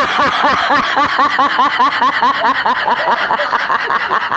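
Loud laughter in quick repeated notes, about six a second, each note rising and falling in pitch.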